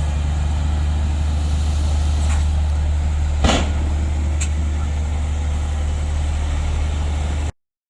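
Heavy earthmoving machine's diesel engine running with a steady deep drone, and a few short metallic clanks, the sharpest about halfway through. The sound cuts out for a moment near the end.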